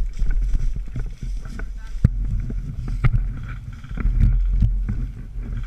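Low rumbling handling and wind noise on a camera worn by an airsoft player, with a few sharp clicks or snaps cutting through it, about two and three seconds in.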